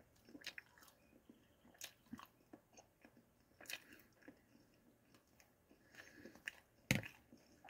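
Close-up chewing of a boneless buffalo wing: soft, scattered wet mouth clicks and light crunches. A sharper knock sounds near the end.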